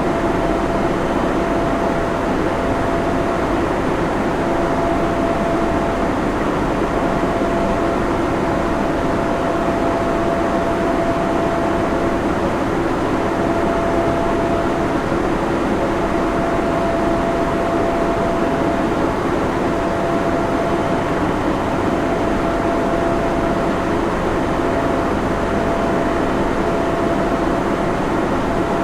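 Server room ambience: the steady hum and rush of cooling fans and air handling, unchanging throughout, with a steady mid-pitched tone running through the noise.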